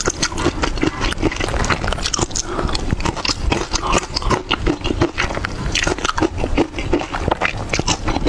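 Close-miked chewing: a person eating, with many quick, crackly crunches one after another and no pauses.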